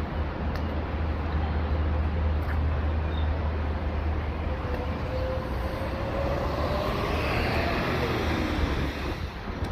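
Road traffic rumble with a vehicle passing: its engine tone rises, then drops in pitch as it goes by, near the end.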